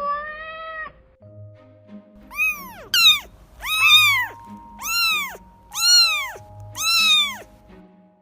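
A cat meowing: one drawn-out meow ends about a second in, then six meows follow about a second apart, each rising and then falling in pitch. Soft background music plays underneath.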